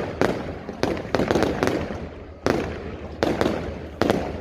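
Fireworks going off in a quick, irregular string of about a dozen bangs, each with a short echoing tail. After a brief lull, a loud bang comes about two and a half seconds in.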